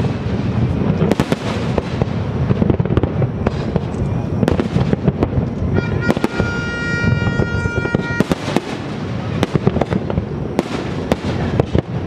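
Fireworks bursting without pause, a dense rumble of booms with many sharp bangs and crackles. About six seconds in, a steady held tone of several pitches sounds over them for about two seconds and then stops.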